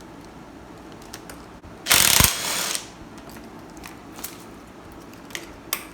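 Hand ratchet wrench clicking in a quick burst about two seconds in, with scattered tool clicks and knocks around it, as bolts are worked loose on the engine.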